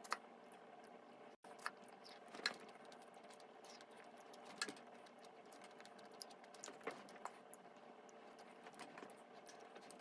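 Quiet room tone with a few faint, scattered light clicks and taps, irregularly spaced, the sharpest about a second and a half, two and a half and four and a half seconds in.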